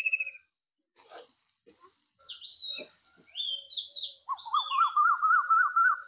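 Birds calling: a run of short whistled notes that each drop in pitch, then a fast warbling trill near the end, with a few faint clicks in between.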